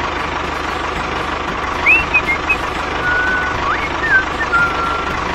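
A mini DIY tractor's small motor running steadily, with a fast, even low pulse. A few short chirping whistles come in about two seconds in and go on until near the end.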